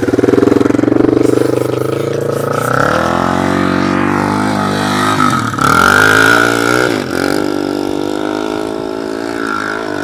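Four-stroke single-cylinder dirt bike engine revving hard under load on a steep hill climb. The pitch rises, then drops sharply twice as the engine bogs or shifts.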